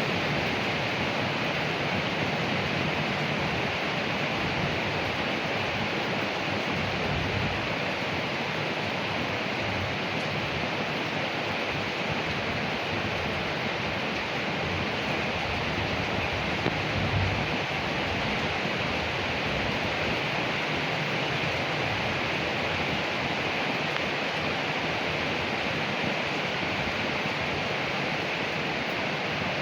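Steady rain falling on leaves, an even hiss with no letup, with a brief low thud about halfway through.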